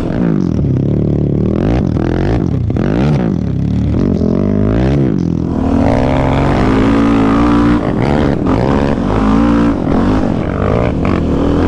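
Yamaha Raptor 700 sport quad's single-cylinder engine, with an aftermarket Dasa full exhaust, revving hard and easing off again and again as it accelerates and backs off over the track, the pitch repeatedly climbing and dropping.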